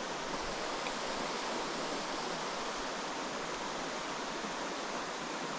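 Creek water rushing steadily over rocks, an even hiss-like rush.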